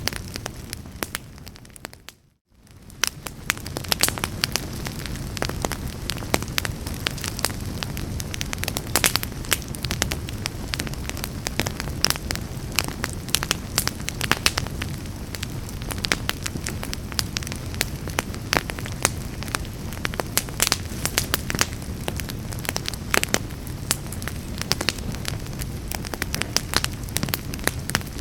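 Wood fire burning in a fireplace, crackling and popping irregularly over a steady low rumble of flames. About two seconds in, the sound fades almost to silence for a moment, then fades back up.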